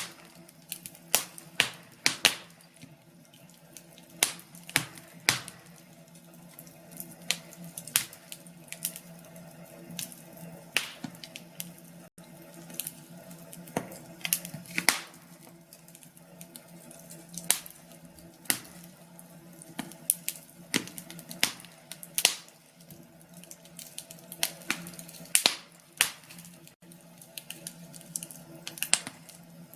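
Burning logs crackling in a fireplace: irregular sharp pops and snaps, some loud, over a low steady hiss and faint hum.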